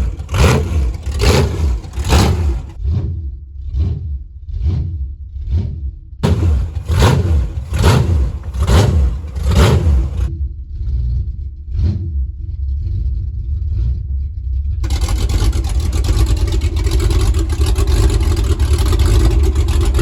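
A car engine revving hard in repeated surges while straining to tow a heavy truck, then running steady and loud near the end.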